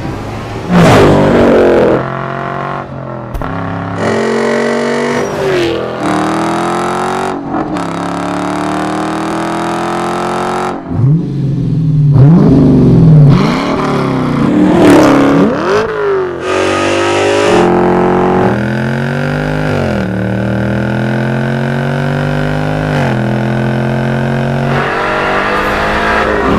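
Performance car engines revving and accelerating hard through Borla aftermarket exhausts, one car after another with abrupt cuts between them. The pitch climbs through each gear and then drops at the shift, with quick throttle blips in the middle.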